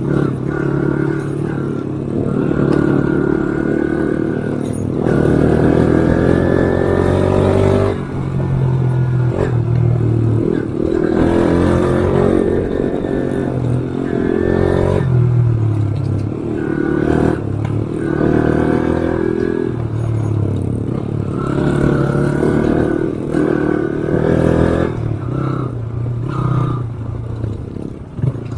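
Motorcycle engine revving up and down over and over as it is ridden off-road, with rattling from the machine over rough ground. There is a long climb in revs about five to eight seconds in.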